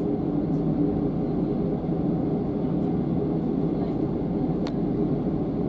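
Steam-hauled train running, heard as a steady rumble with no separate exhaust beats, and one short click about three-quarters of the way through.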